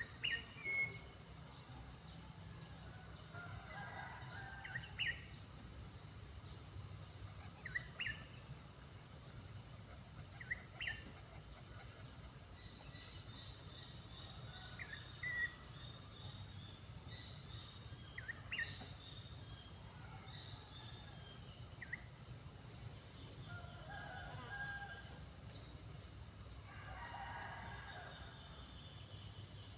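Outdoor natural ambience: a steady high-pitched drone of insects, with a bird's short, sharp chirp repeated every few seconds and a couple of longer, lower bird calls near the end.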